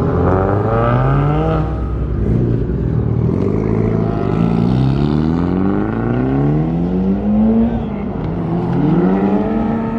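Car engines accelerating hard, pitch climbing in about five rising sweeps that each drop back and climb again.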